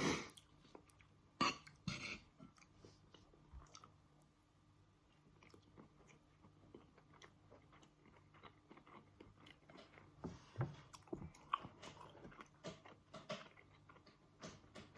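A person chewing and eating up close: soft mouth sounds and small clicks, a few louder ones near the start and again later on, likely with cutlery touching a plate or bowl.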